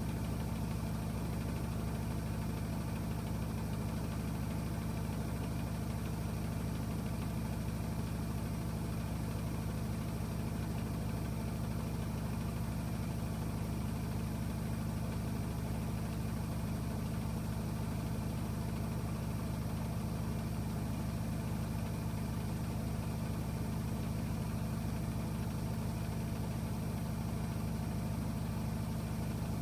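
AEG Öko-Lavamat washing machine running with a steady, unchanging low hum.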